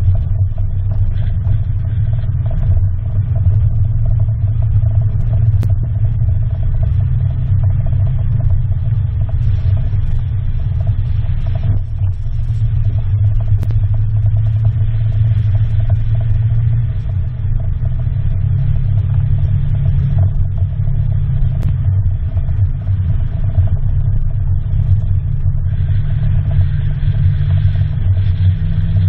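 Engine running with a steady low rumble, easing off briefly twice.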